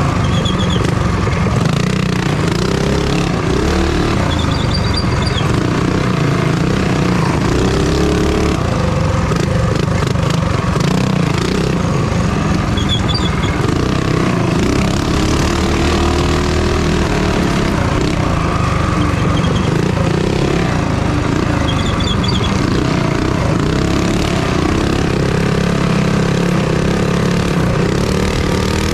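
Small minibike engine running hard under racing throttle, its revs rising and falling over and over as the throttle is opened and eased.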